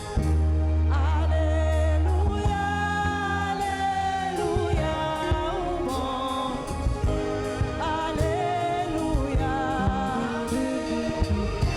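Gospel song: voices singing together over a band with a held low bass note, keyboard and drums, the voices coming in about a second in.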